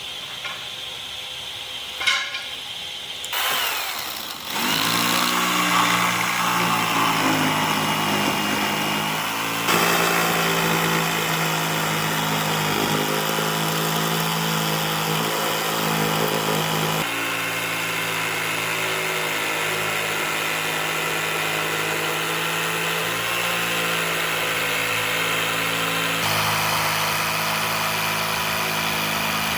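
A few light clicks, then a workshop power tool's motor spins up about four seconds in and runs steadily. Its tone shifts abruptly three times.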